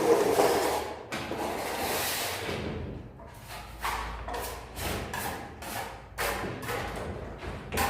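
Steel plastering trowel scraping and smoothing wet gypsum plaster on a ceiling, taking off the excess. Longer strokes at first, then a run of short, quick scrapes about two a second.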